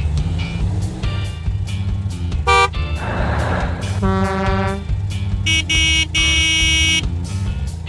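Cartoon vehicle horns honking over background music with a steady beat: a short loud blast about two and a half seconds in, another about a second and a half later, and a longer, louder double blast near the end.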